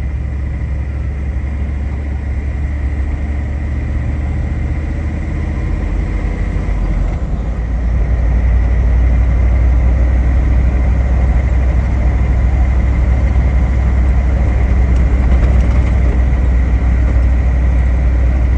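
A 7.3 L IDI turbo-diesel V8 in a 1973 Ford F-250 running steadily while the truck drives through snow, with a steady high whine above the engine. The engine gets louder and fuller about seven to eight seconds in.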